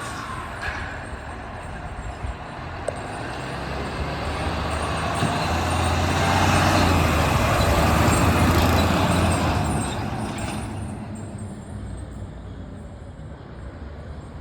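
A motor vehicle driving past, its engine and tyre noise swelling to a peak about halfway through and then fading away.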